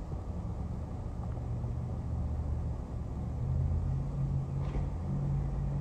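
Car engine idling, a steady low hum heard inside the cabin, stepping up slightly in pitch about three and a half seconds in.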